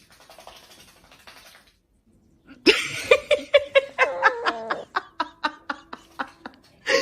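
A person laughing hard: a run of rapid, pulsing laughs that starts a few seconds in and gradually trails off.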